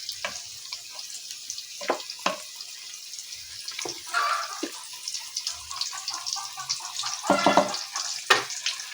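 Food sizzling and crackling in hot oil in a pan while it is stirred, with the spatula knocking and scraping against the pan a few times.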